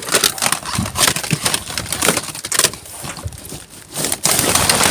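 Rummaging through a bin of discarded items: plastic crinkling and rustling with irregular knocks and clicks as things are moved, the rustling growing denser near the end.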